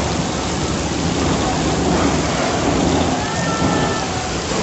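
Heavy rain pouring down and floodwater rushing through the street: a loud, steady wash of noise.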